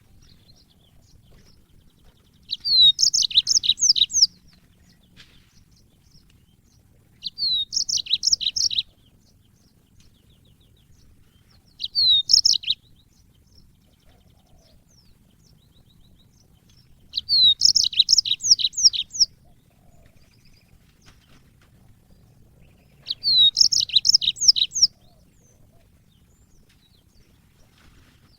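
Yellow-fronted canary (Mozambique canary) singing in five short phrases, each opening with a falling whistle and running into a quick, high twittering trill, with pauses of a few seconds between them.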